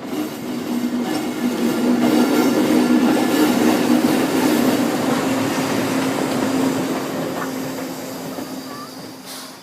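JNR EF65 electric locomotive hauling a dead C56 steam locomotive rolls past, with a steady hum under the rail noise. It grows louder over the first two seconds, then fades away near the end.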